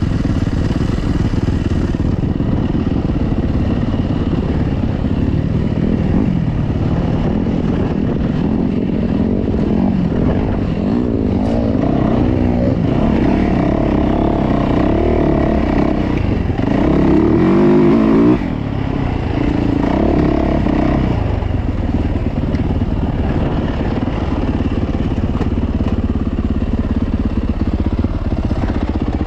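Dirt bike engine, a four-stroke 450cc single, running under riding, with the revs rising and falling through the middle. It revs hardest about two-thirds of the way in, then drops off suddenly.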